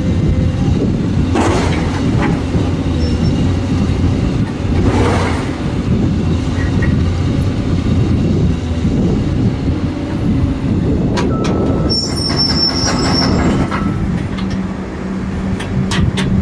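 Heavy vehicle running with a steady low rumble, and a brief high metallic squeal about twelve seconds in.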